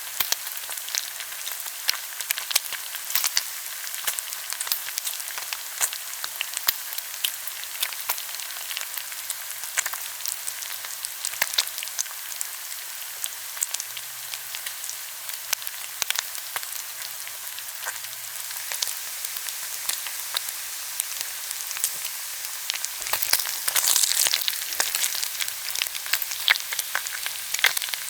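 Pork belly sizzling on a hot grill pan: a steady hiss of frying fat full of small sharp pops and crackles. The sizzle grows louder and denser for a couple of seconds near the end.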